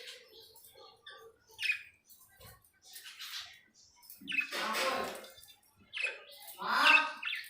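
Budgerigars calling: scattered short chirps and a few raspy squawks, the loudest one about midway and another near the end.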